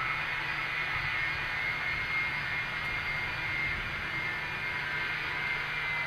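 Jet airliner's engines running with a steady high whine over a broad rush, the whine sinking slightly in pitch.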